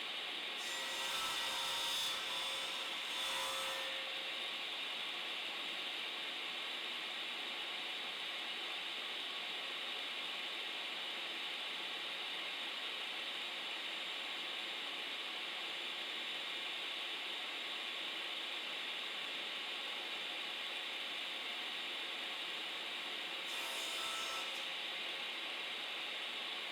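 Steady background hiss, broken twice by short scraping sounds: one from about half a second to four seconds in, and a brief one near the end.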